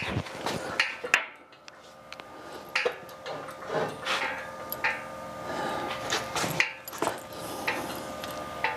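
Irregular knocks, clicks and scrapes of hands working on heavy equipment, over a faint steady hum.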